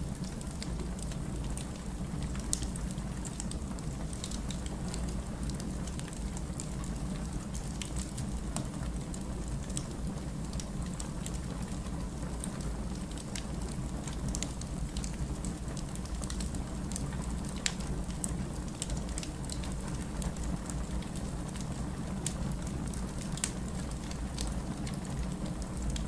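Wood fire burning in a fireplace: a steady low rumble with frequent small crackles and occasional sharper pops of the burning logs.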